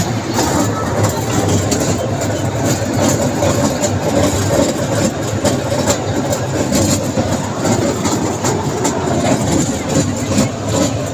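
Amusement-park ride train running, with a steady engine noise and irregular clatter from the moving train.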